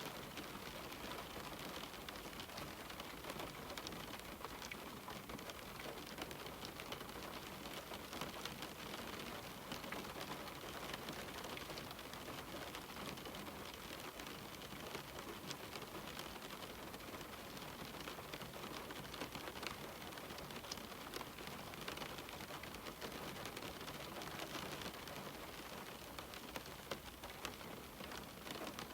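Steady rain on a window pane: an even hiss of rainfall with many small, sharp drop ticks scattered through it.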